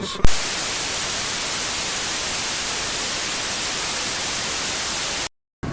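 Static hiss, steady and even, starting with a sharp click and cutting off abruptly into a moment of dead silence near the end.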